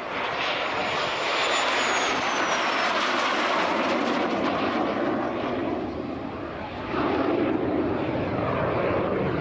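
Jet Provost T5's Armstrong Siddeley Viper turbojet during a display flight: steady jet noise with a faint high whine that slides slightly down about two seconds in. The noise dips briefly and swells again about seven seconds in.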